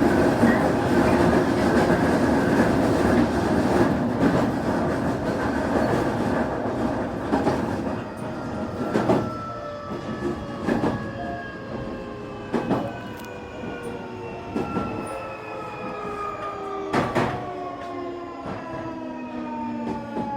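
Semboku 9300 series electric train with a Hitachi SiC VVVF inverter, its running noise easing off as it slows, while the inverter and traction-motor whine falls steadily in pitch: the sound of the train braking. Rail-joint clacks come at a slowing pace as the train loses speed.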